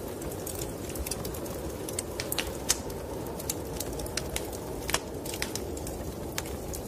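Wood fire in a fireplace crackling, with irregular sharp pops and snaps, over a steady low rushing noise.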